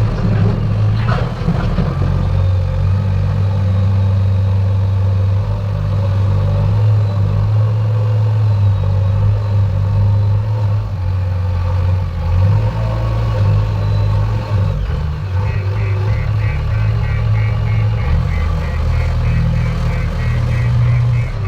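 Heavy diesel engine of earth-moving machinery running steadily under load. About two-thirds of the way through, a rapid series of short high tones begins.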